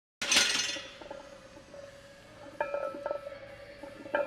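A short burst of noise as the sound cuts in, then a steady hum with a few sharp metallic clinks of gym equipment, such as weight plates or a barbell being handled.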